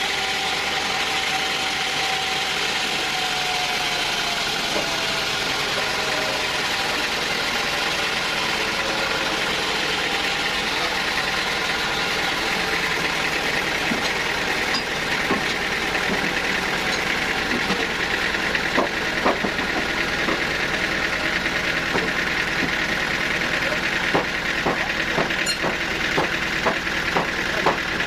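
Sawmill machinery running steadily. A tone slides downward over the first several seconds, and from about halfway on there are irregular knocks and clacks.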